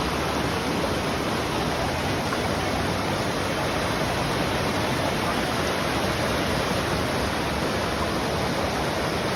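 Waterfall rushing: a steady, even wash of falling water with no let-up.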